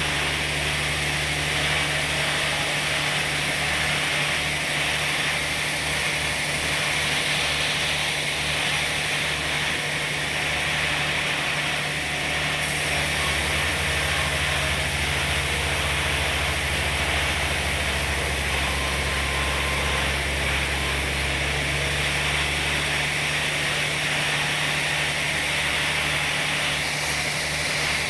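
Sawmill machinery running steadily, with a low engine hum under a continuous hiss.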